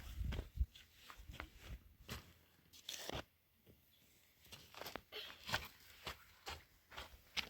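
Irregular crunching and crackling: a string of short, sharp clicks and snaps, with a quieter stretch a little before the middle.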